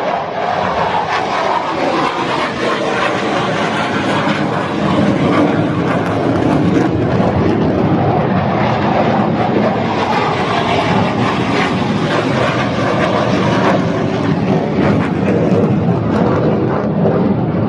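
Military jet aircraft in flight: loud, steady jet engine noise.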